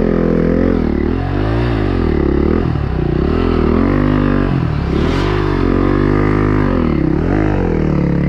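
Dirt bike engine revved up and down over and over, about once a second, as a rider tries to climb a rocky slope with the rear wheel spinning for traction, over the steady idle of a second bike close by.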